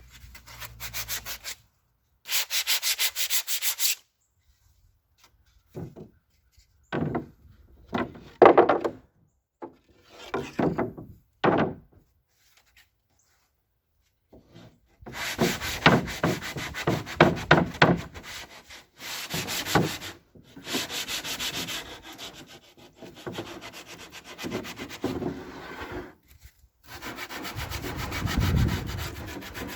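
Sanding: rapid, rhythmic rubbing strokes in several short bursts, separated by silent gaps.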